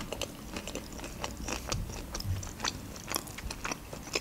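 Close-miked chewing of a mouthful of shawarma: a steady string of small, irregular mouth clicks.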